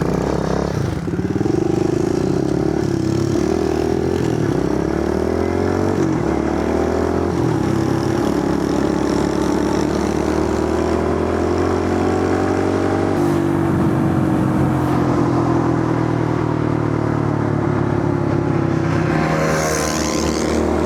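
Kawasaki KLX110 pit bike's small single-cylinder four-stroke engine pulling hard through the gears on a speed run. The pitch climbs, then drops at each upshift.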